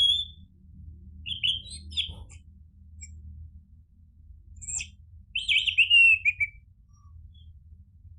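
Orange-headed thrush singing in short bursts. First comes a short note, then a quick chattering phrase, a sharp high note, and near the end a longer phrase that falls in pitch, all over a faint low hum.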